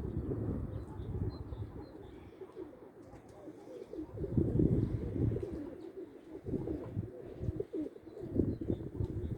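Domestic pigeons cooing, with wind gusting across the microphone in uneven swells.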